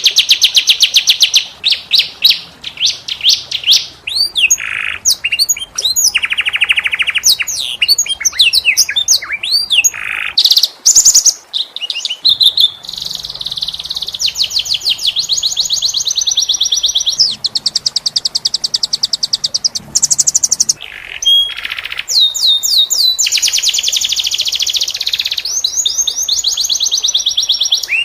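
Domestic canary singing a long, continuous song of fast, rapid-fire trills (rolls) broken up by quick rising and falling whistled notes.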